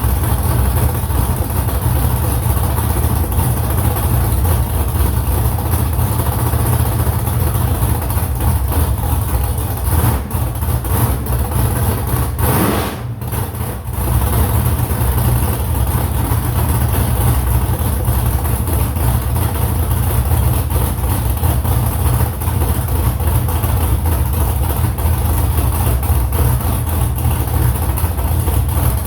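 A vehicle engine running steadily with a deep rumble, dipping briefly about twelve seconds in.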